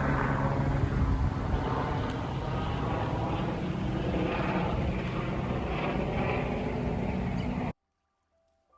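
A motor vehicle's engine running steadily with rushing noise, cutting off abruptly near the end.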